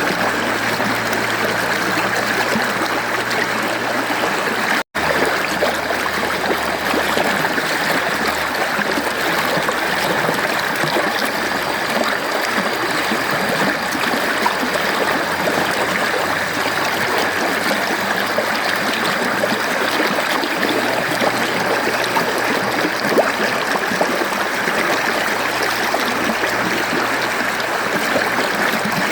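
Mountain stream water flowing and splashing over rocks in a steady rush, with a split-second dropout to silence about five seconds in.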